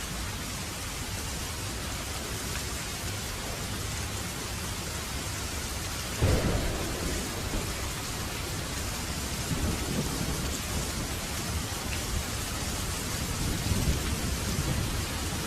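Steady rain falling, with a roll of thunder that breaks in suddenly about six seconds in and rumbles away over the following seconds.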